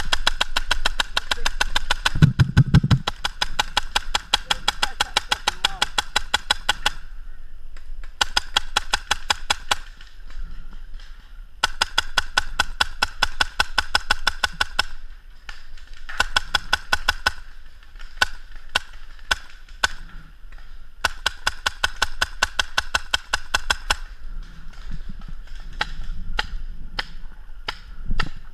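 Paintball marker firing rapid strings of shots, about ten a second, in several bursts lasting a few seconds each, with scattered single shots between the bursts.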